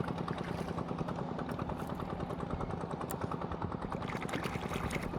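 Small boat engine running steadily: a fast, even chugging over a constant low hum.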